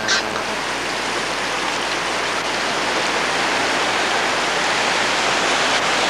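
Flash-flood water rushing down a wadi channel: a steady rushing noise that slowly grows a little louder.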